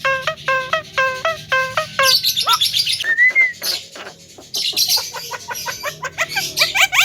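Javan myna (jalak kebo) singing: a run of repeated notes about four a second, then a rising whistle and a short lull, building near the end into a fast series of rising chirps.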